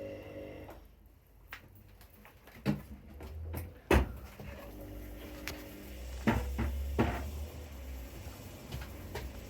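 A series of sharp knocks and clunks, about half a dozen, the loudest about four seconds in, over a low rumble, like things being handled and set down.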